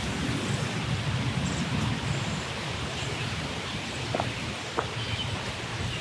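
Steady hiss of falling water, rain and a garden hose's spray, with a few faint bird chirps.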